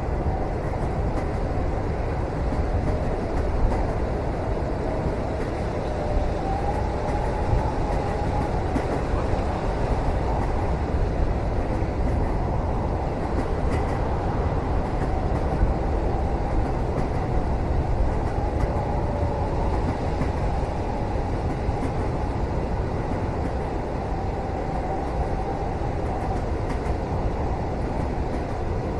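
Steady rumble of a train running along the rails, heard from inside a passenger cabin, with a faint wavering whine that comes and goes.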